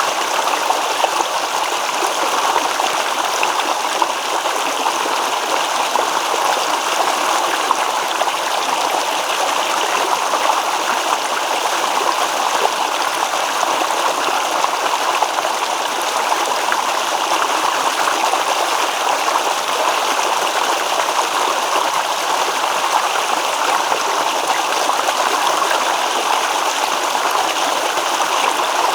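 A shallow stream babbling and trickling over stones, a steady, even rush of running water.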